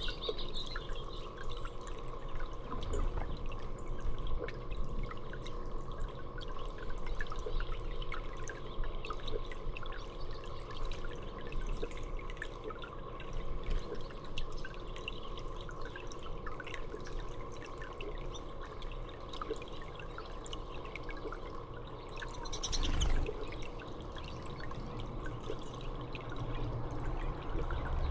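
Water trickling and dripping steadily, with a brief louder rush of sound about 23 seconds in.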